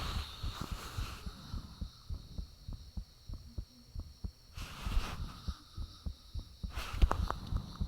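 A person's heartbeat recorded close up: a quick run of low thumps under a faint steady high-pitched whine. Two brief rustling noises come about five and seven seconds in.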